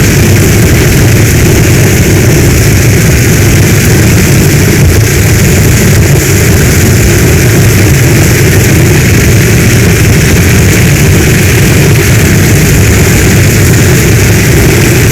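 Heavy storm rain falling steadily, a dense unbroken hiss over a strong low rumble.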